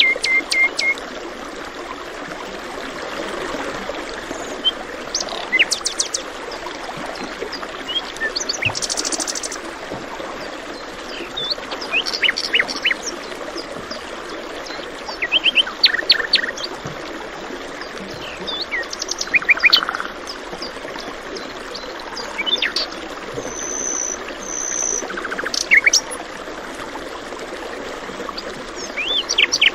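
Small songbirds chirping and calling over the steady sound of flowing water, with short notes and quick trilled series every few seconds.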